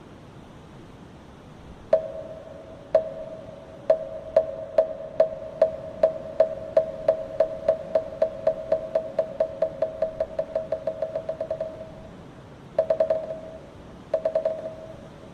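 Moktak, the Korean Buddhist wooden fish, struck by hand with a clear hollow ringing tone: two single strokes a second apart, then a long run of strokes that speed up steadily into a fast roll. Two short quick rolls follow near the end.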